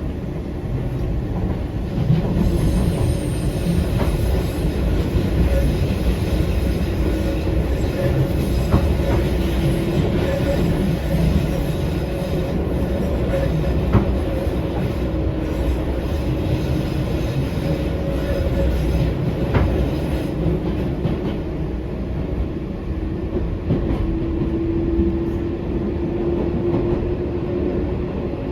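Eizan Electric Railway 900-series "Kirara" electric railcar running, heard from inside: a steady low rumble of wheels on rail with occasional sharp clicks, and a faint steady hum that grows stronger near the end.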